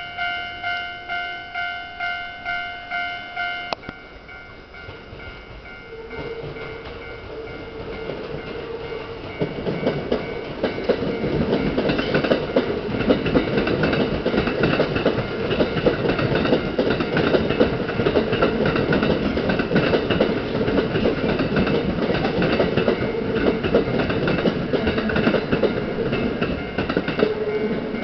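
A level-crossing bell rings, about two and a half strokes a second, and stops about four seconds in. A Kintetsu red-and-white electric train then comes up with a steady hum and runs past with a loud rumble and clatter of wheels over the rails and points.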